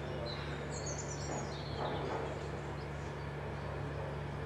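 Small songbirds chirping in short, high twittering phrases, mostly in the first half, over a steady low hum and background noise.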